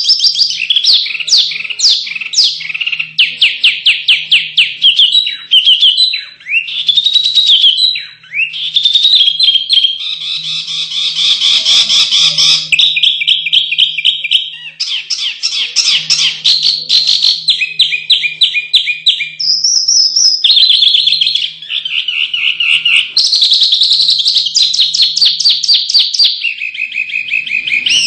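Small songbirds singing a fast, unbroken run of varied song: rapid trills, chattering and quick rising and falling phrases, one after another. This is the 'fighting' song used as masteran, a tutor recording played to contest songbirds.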